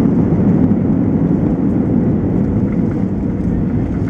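Cabin noise of an Airbus A320-214 in the landing phase: its CFM56 engines and the rushing airflow make a loud, steady low rumble that eases slightly toward the end.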